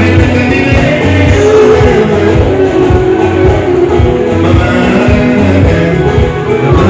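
Live band music: a singer over guitar, bass and a steady beat, played loud.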